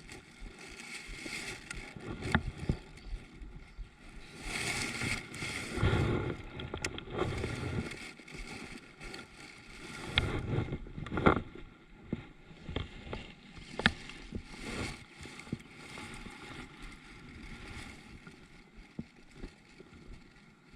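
Water sloshing and gurgling around a kayak, with swells of water noise and a handful of sharp knocks.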